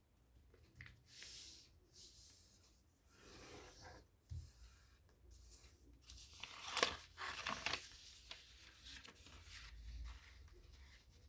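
A sheet of paper being folded and creased by hand: intermittent rustling and crinkling, with the loudest run of crinkles past the middle.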